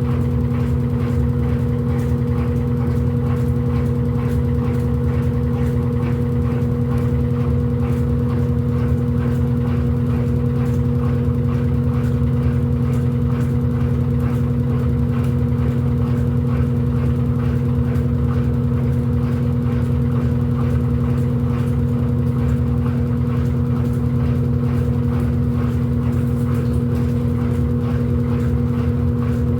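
Electrolux LED14 washing machine running, a steady motor hum with a constant whine that holds one pitch throughout.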